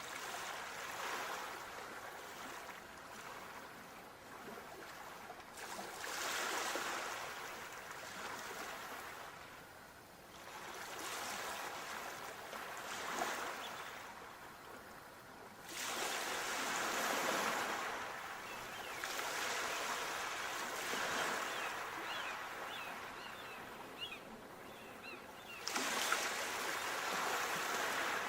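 Sea waves washing in and drawing back, one surge every few seconds. Two of them arrive suddenly and loudly, about sixteen and twenty-six seconds in.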